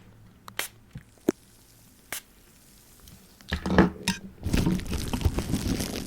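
Plastic wrap stretched over a microphone and wet with sprayed water, handled close up: a few small clicks, then from about halfway a dense, loud crinkling and wet crackle.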